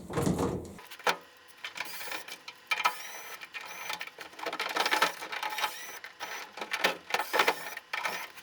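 Plastic panel parts and screws of a Hitachi BW-V80C washing machine clicking, rattling and scraping as its top control panel is unscrewed and taken apart, with a few short squeaks.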